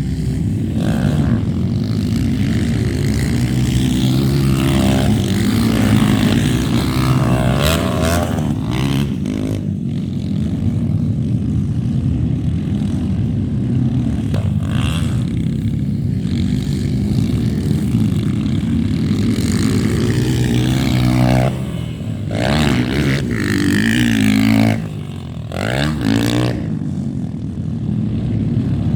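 Motocross dirt bike engines running and revving, their pitch rising and falling several times as bikes go by.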